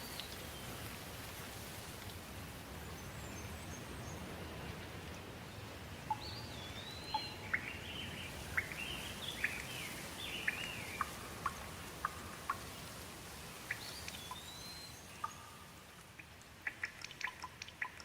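Steady rain with birds chirping, a run of short gliding calls through the middle. Near the end the rain thins a little and single drips tick sharply.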